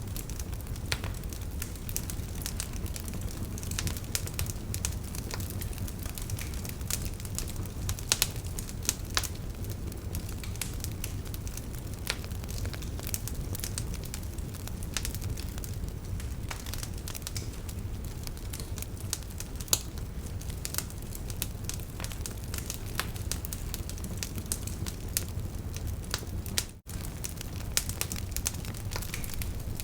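Wood fire crackling in a fireplace: a steady low rumble with frequent sharp pops and snaps, and a momentary gap near the end.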